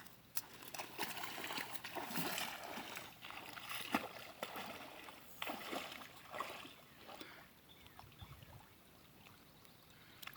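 Water splashing and trickling in irregular bursts, busiest in the first several seconds and dying down toward the end.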